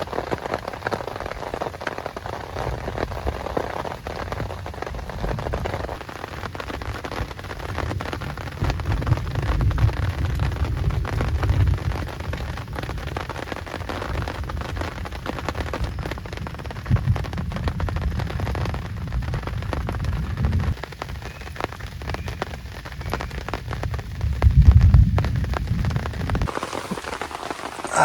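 Heavy rain falling, with many drops pattering on a surface close by. Deep low rumbles swell up several times, the loudest about three seconds before the end.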